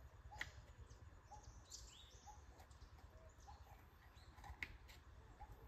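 Faint bird chirps, short notes repeating every second or so over a low background rumble, with a sharp click about half a second in and another about four and a half seconds in.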